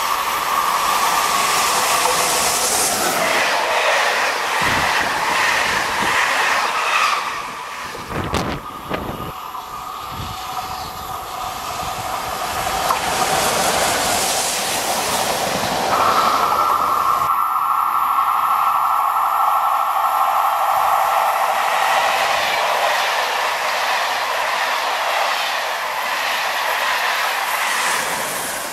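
SNCF AGC bi-mode railcar rolling through a tight curve at close range, its wheels squealing on the curved rail with a steady high tone that is strongest from about 16 to 22 seconds in. A quick run of wheel clacks over the rail comes around 8 to 10 seconds in.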